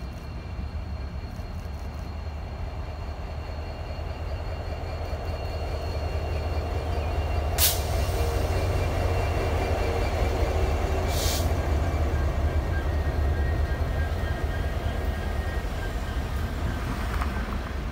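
A train rolling past, a steady rumble of wheels on rail that builds to its loudest midway and then eases off, with two sharp metallic clicks along the way.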